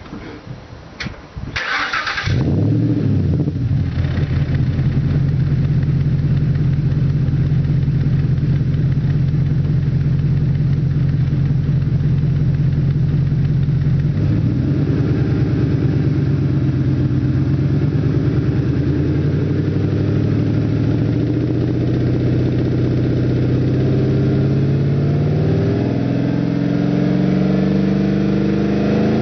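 Ford FPV FG GS supercharged V8 with a custom twin exhaust being started: a brief crank, then the engine catches about two seconds in and runs at a fast idle. It settles into a lower idle about halfway through, and the revs rise gently near the end.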